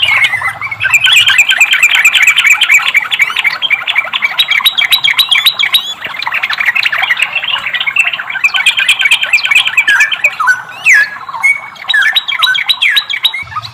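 Yellow-vented bulbul (trucukan) singing a fast, dense chattering song of rapid squawky notes, loosening into a few sweeping notes about three-quarters of the way through before the rapid chatter resumes.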